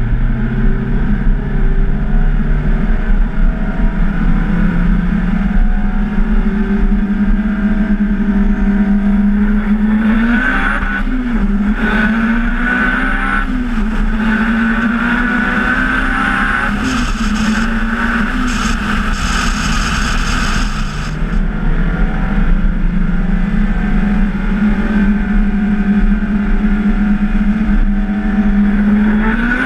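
Turbocharged Honda S2000's four-cylinder engine running loud and steady, its pitch wavering and dipping several times about a third of the way in. A stretch of hissing comes in over it about two-thirds of the way through.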